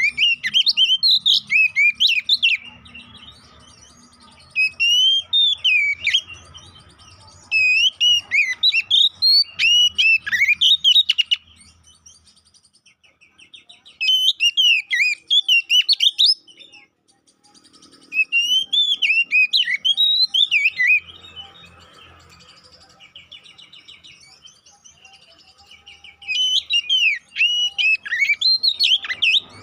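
Male oriental magpie-robin (kacer poci) singing a loud, fast, varied whistled song in six bursts of about two to four seconds each, with short pauses between them. This is an agitated, fighting-style song used to provoke other magpie-robins into singing.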